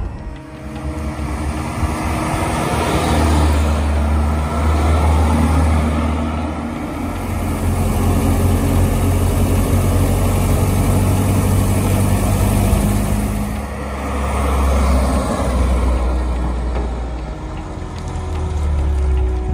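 1984 BMW 318i E30's four-cylinder engine running as the car is driven, a steady low hum. In the middle comes a louder rushing hiss that fades out again.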